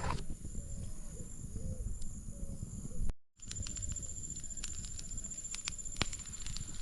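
Rural outdoor ambience: a steady high insect drone with soft repeated bird calls, scattered clicks and a low rumble, cut off for an instant about three seconds in.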